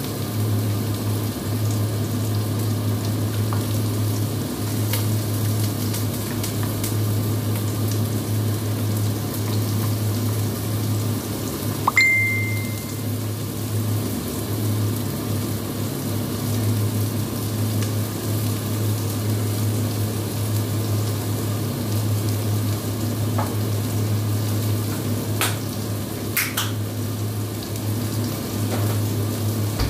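Onion and grated garlic frying in hot oil in a deep pot: a steady sizzle with spattering, over a steady low hum. A single sharp click with a brief high ring about twelve seconds in.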